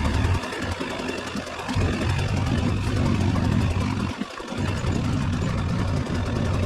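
Motorcycle engine running during a ride, a low steady drone that eases off briefly twice, once near the start and once about four seconds in, over an even rushing noise.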